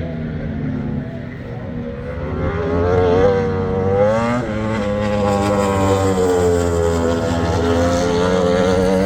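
Superbike engines at high revs on a race straight, growing louder from about two seconds in, with the engine pitch wavering and shifting, then a sustained loud engine note as the bikes pass.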